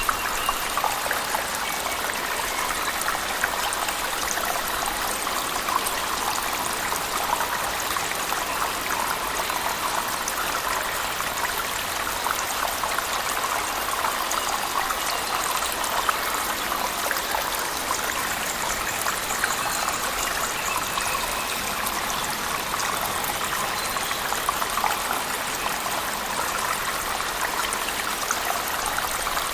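Waterfall in a cave mixed with heavy rain: a steady, even rush of falling water with a fine crackle of drops.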